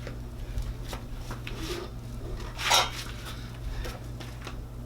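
Small clinks and rubbing from hands working the exhaust's steel mounting springs and a rope into place, with one louder scrape a little past halfway. A steady low hum runs underneath.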